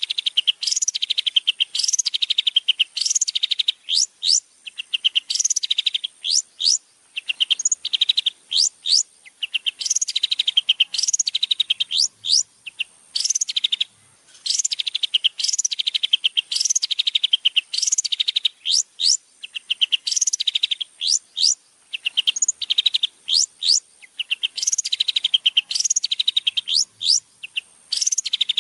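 A songbird repeating a short, loud song phrase about once a second. Each phrase is a steep, high whistled sweep followed by a fast, buzzy trill.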